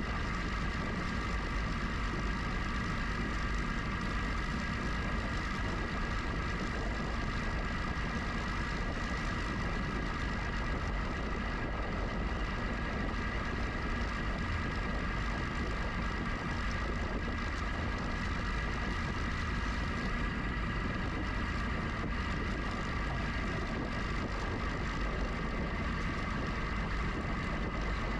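Riding noise from a GoCycle GX electric bike: a steady wind rumble on the helmet or handlebar camera microphone, with a constant high whine. The sound does not change.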